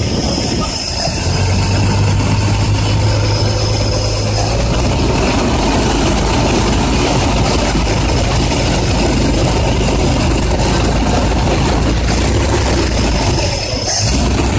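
Ford 300 cubic-inch (4.9 L) inline-six engine idling steadily, run to check that oil is now reaching the rocker arms through the reworked pushrods.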